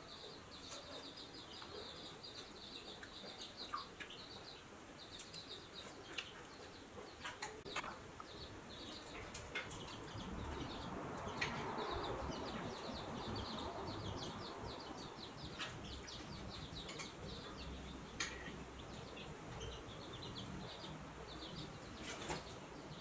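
Outdoor ambience: a continuous fast high-pitched chirping throughout, with scattered sharp clicks and taps and a brief swell of rustling noise near the middle.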